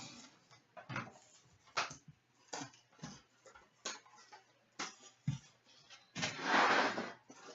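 Hockey card boxes and packs being handled on a table: sharp taps and clicks about once a second, then a noisy rustle lasting about a second near the end.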